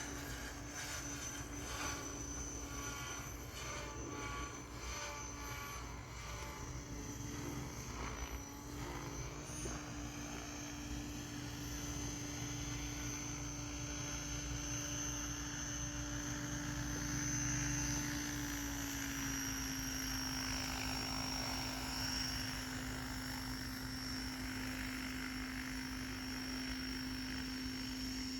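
SAB Raw 700 Piuma electric model helicopter in flight: a steady hum of rotor and motor with a high whine above it. The pitch drops slightly about two-thirds of the way in.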